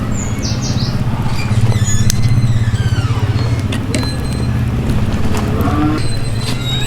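A steady low engine-like hum, with bird chirps and a few light ticks over it.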